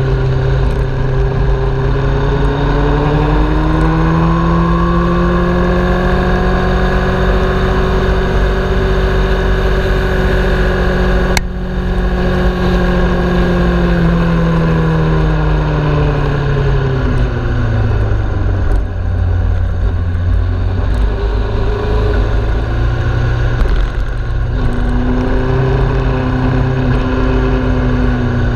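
Sport bike's engine heard from an onboard camera while lapping: the engine note climbs over the first few seconds and holds high, then falls away about two-thirds of the way through as the bike slows, and climbs again near the end. There is one sharp click about a third of the way in.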